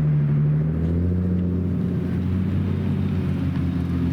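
Car engine held at raised revs: its note climbs at the start, then stays steady, with a deep exhaust rumble underneath.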